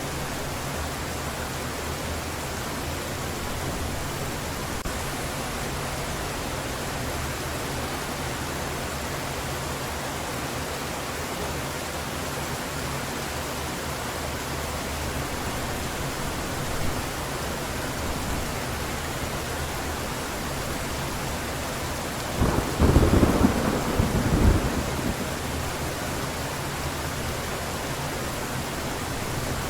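Heavy rain falling steadily, with one loud clap of thunder about three-quarters of the way through that lasts a couple of seconds before the rain alone carries on.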